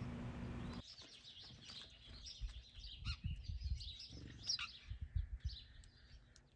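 Small songbirds chirping in many quick, short, high calls. A steady hiss in the first second cuts off abruptly, and a few low bumps come through among the chirps.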